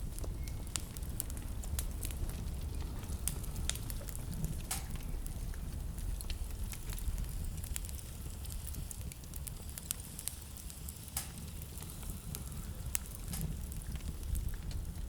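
Wood fire burning in a fireplace, with frequent irregular sharp crackles and pops over a steady low rumble.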